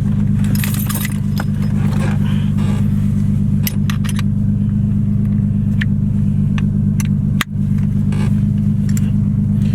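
Nissan 370Z's V6 idling with a steady low drone, while the metal buckles of its seat harness click and jingle now and then as someone settles into the seat.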